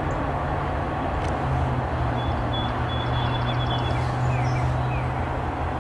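A freight train running past with a steady rumble, under the low drone of its diesel locomotive engine. A few short, high chirps come in the middle.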